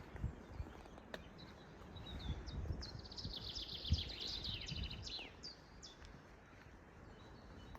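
A songbird singing: a fast, dense trill of high notes that starts about two and a half seconds in and ends after about five seconds with falling notes, with a few single chirps before and after. It is heard over a steady low rumble with soft thumps.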